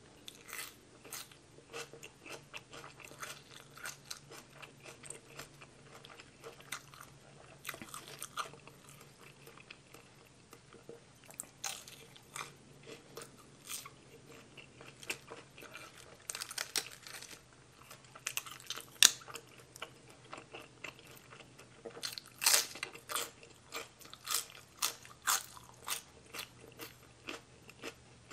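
Close-up chewing and crunching of mouthfuls of spicy mixed salad with raw greens: irregular crisp crunches and wet mouth clicks, with louder bursts of crunching in the second half.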